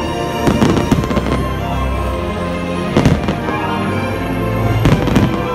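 Fireworks bursting over the show's music, which plays from loudspeakers: a cluster of bangs about half a second in, one at about three seconds, and a couple more near the end.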